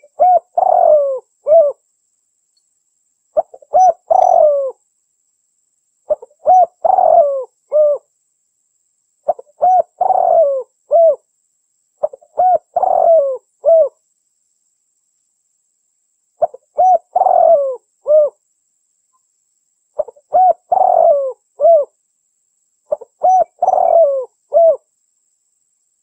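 Female spotted dove (derkuku) cooing: a short phrase of a few low coos with one stronger middle note, repeated about every three seconds, nine times in all, with a slightly longer pause about halfway through.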